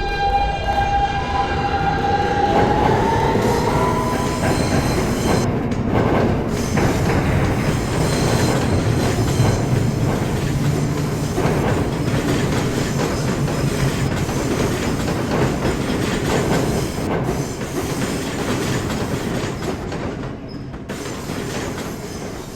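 New York City subway train running through the station, its wheels clacking over the rail joints. A sustained high tone sounds for the first few seconds and rises in pitch about three seconds in. The noise eases off near the end.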